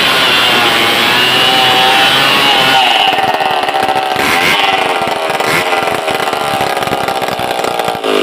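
Stihl 070 two-stroke chainsaw running at high revs while cutting a large log; about three seconds in the engine speed drops and wavers under load.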